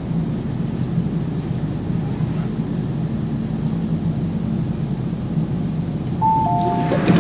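MTR K-Train running in service, a steady low rumble with a drone from the train. About six seconds in, a two-note descending chime sounds, the kind that opens an onboard announcement.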